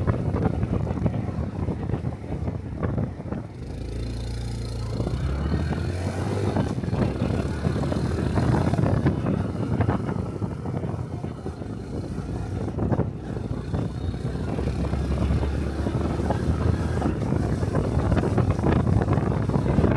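Honda Cub 125 cc single-cylinder four-stroke engine running while riding, under heavy wind noise on the microphone. The engine note holds steady for a couple of seconds about four seconds in and again about fifteen seconds in.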